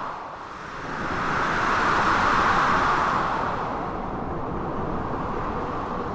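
Blizzard wind gusting: a steady rushing noise, with a gust swelling about a second in and easing off after three seconds.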